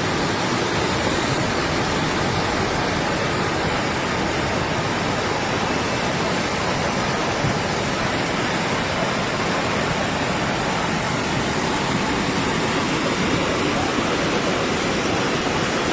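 Fast-flowing floodwater rushing, a steady, even sound of moving water with no breaks.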